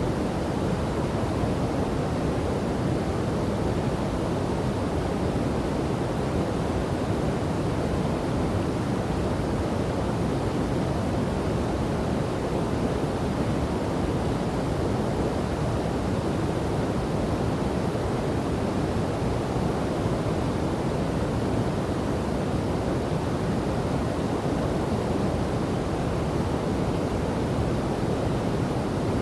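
Waterfall and river water rushing in a steady, unbroken, deep roar of noise.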